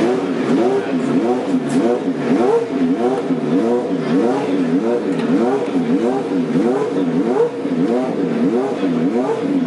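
McLaren MP4/4's Honda 1.5-litre turbocharged V6 running with rhythmic throttle blips, the revs rising and falling about three times every two seconds.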